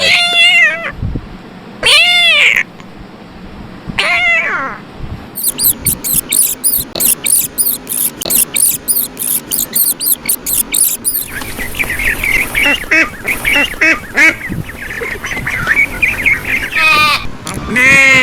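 A string of animal calls. Three separate drawn-out meows come in the first five seconds, then a fast run of short repeated calls for several seconds, then another quick series of calls.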